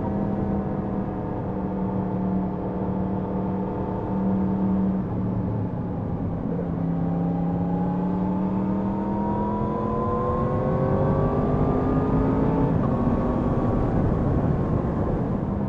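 Yamaha MT-10 SP motorcycle's crossplane inline-four engine under way: a steady note for about five seconds, then a brief drop before the pitch rises steadily as the bike accelerates, with a gear change about three seconds before the end.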